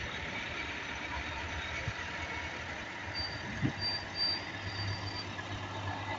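Trucks' engines running with a steady low drone, a single dull knock about two-thirds of the way through, and faint high beeping in the middle.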